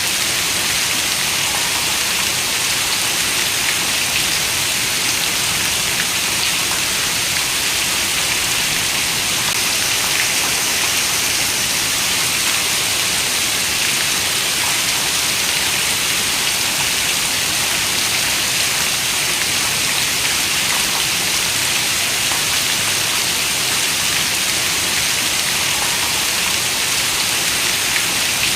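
Steady rain falling, a constant hiss with faint scattered drop ticks and no thunder.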